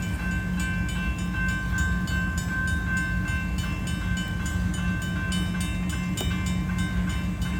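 Railroad crossing bells, one electronic and one mechanical, ringing with rapid, even strikes about three a second over the low, steady rumble of a slow-moving freight train's cars rolling past.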